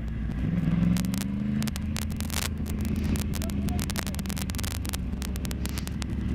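Sportbike engine running at low road speed, rising briefly in pitch about a second in, with many short clicks and rustles of wind on the helmet microphone.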